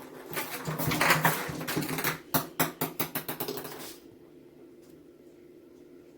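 A kitten playing with a toy: rapid clattering clicks and knocks that come faster and sharper near the middle, then stop about four seconds in, leaving only a faint steady hum.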